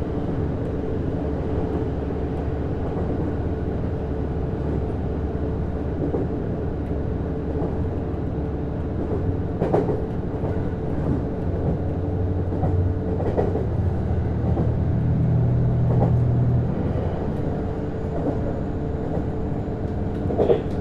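Interior running sound of a JR East Series HB-E210 hybrid diesel-electric train: a steady hum from the drive, with a few sharp wheel clicks over rail joints. The low hum swells about two-thirds of the way through, then drops back.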